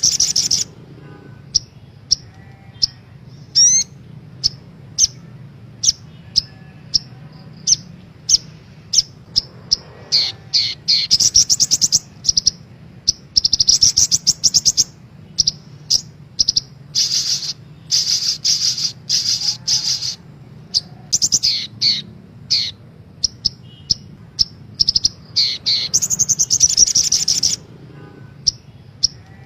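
Crimson sunbird (sogok ontong) song: sharp, high-pitched chirps broken by rapid trills lasting a second or two, repeating over and over, above a faint steady low hum.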